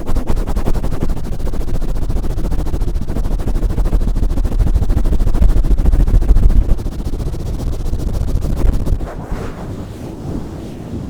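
Hands rubbing and swirling rapidly right on a covered Blue Yeti microphone, making a dense, fast scratchy rustle over a heavy rumble. The rumble eases after about seven seconds.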